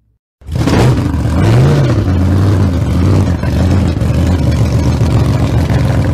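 A vehicle engine running, starting abruptly about half a second in, with a brief rev, rising and falling in pitch, about a second and a half in.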